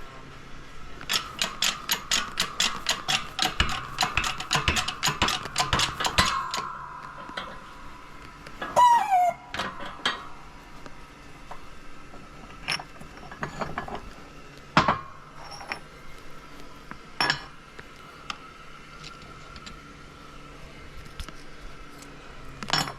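Transmission teardown with steel gear parts and hand tools: a fast run of metallic clicks, about four or five a second, for some five seconds. Then a short scraping slide and scattered single clinks and clunks as the parts are handled.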